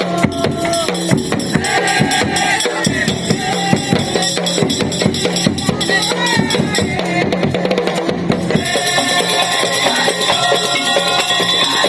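Madurese tong-tong (daul) percussion ensemble playing: fast, dense drumming and struck percussion with a pitched melody line over it.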